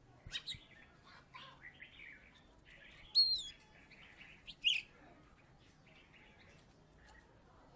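Oriental magpie-robin (kacer) singing in short whistled and chirping phrases, the loudest a clear falling whistle about three seconds in and a sharp note just before five seconds, with quieter song around them.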